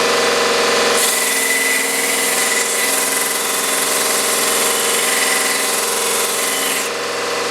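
Mini belt sander's small motor running steadily. From about a second in until near the end, a workpiece is pressed against the belt and the sanding hiss sounds over the motor hum.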